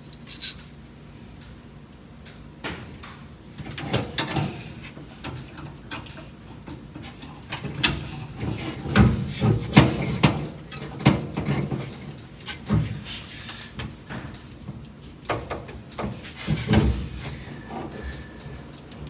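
Hand tools clinking and knocking on metal as a 13 mm nut is fitted to the steering column coupler bolt: irregular clicks and clanks, busiest through the middle.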